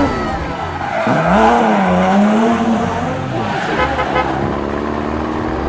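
Car engine revving, its pitch dropping about a second in, then rising and falling again, over a steady low hum.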